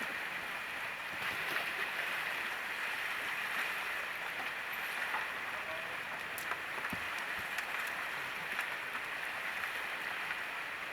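Steady rush of white water on a river rapid, with a few light clicks.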